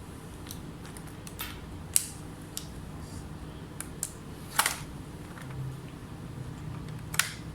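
Scattered light clicks and taps of small tools and parts being handled during laptop board repair, about nine in all, the loudest about two seconds in, four and a half seconds in and near the end, over a steady low hum.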